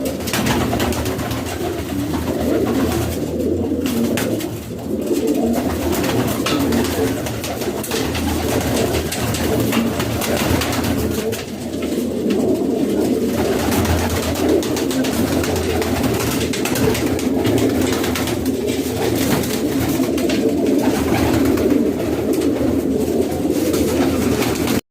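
A flock of domestic pigeons cooing together, many overlapping low coos running on continuously with no break.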